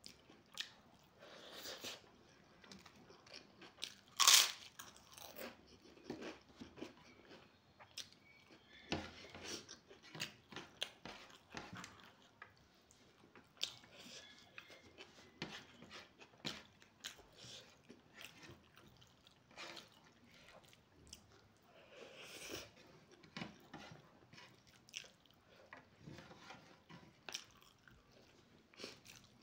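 Close-up chewing and eating sounds of a person eating rice and curry by hand, with short crunchy bites scattered throughout; the loudest crunch comes about four seconds in.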